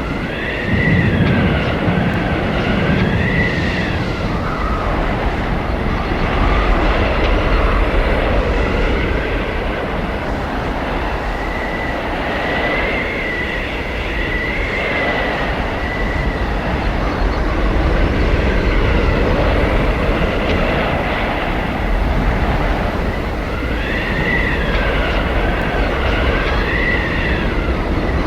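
Blizzard wind howling over a deep, steady rumble. A high whistle rises and falls in waves, coming back about every twelve seconds.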